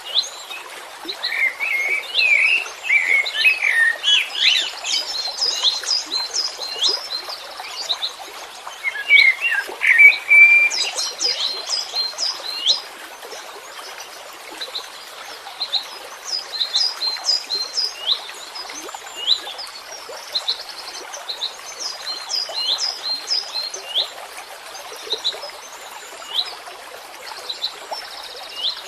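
Songbirds singing: a run of short, high, quickly falling chirps repeated over and over, with lower warbling phrases twice in the first half, over a steady background hiss.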